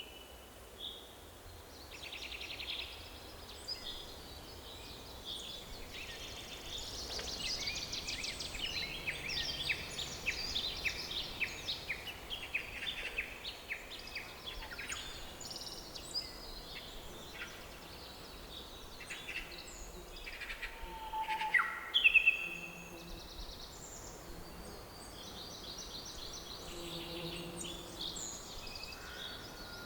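Forest ambience: several small birds chirping and trilling in overlapping calls over a faint steady hiss, with a louder call burst about three quarters of the way through.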